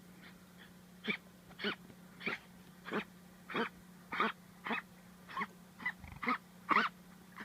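Miniature dachshund wheezing, a rapid rhythmic run of short squeaky breaths, close to two a second, starting about a second in and loudest near the end. The labored, whistling breathing is a sign of bronchitis.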